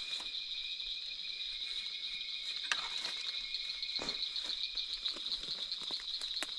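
Steady high-pitched chorus of night insects, a continuous pulsing trill, with a few faint knocks and rustles.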